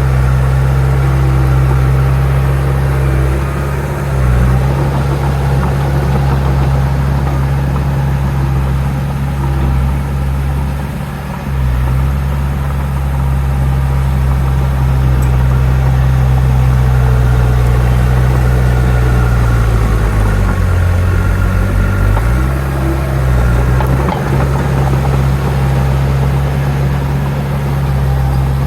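Heavy construction machine's diesel engine running steadily with a deep drone. Its pitch sags briefly about four seconds in and again near eleven seconds, then drops for about two seconds past the two-thirds mark as the engine takes load before recovering.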